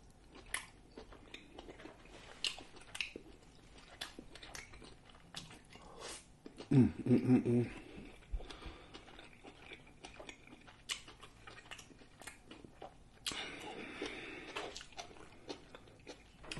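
Close-miked mouth sounds of eating grilled lobster tail: wet chewing and lip-smacking clicks throughout. About seven seconds in comes a short hummed moan of enjoyment, the loudest sound.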